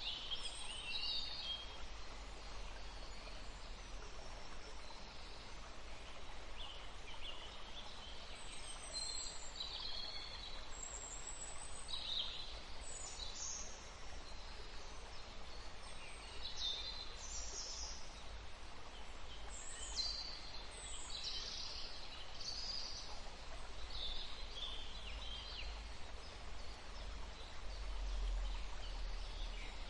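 Forest birds chirping and calling in many short, scattered phrases, several overlapping at times, over a steady low background rumble.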